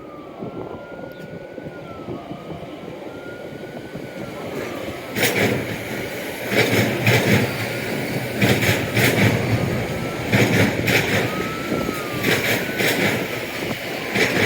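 Train passing close by. Its wheels clack over the rail joints in evenly spaced pairs of knocks, which start about five seconds in over a rising rumble of the train.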